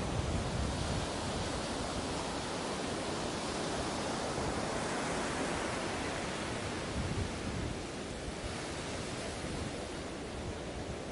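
Ocean surf washing onto a beach: a steady hiss of breaking waves that swells around the middle and eases slightly toward the end.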